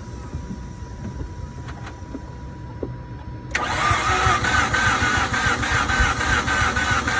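A faint steady whine, then about halfway through the 2007 Mazda RX-8's rotary engine starts cranking on the starter with an even beat of about three pulses a second, without catching. The car will not start although it is getting fuel.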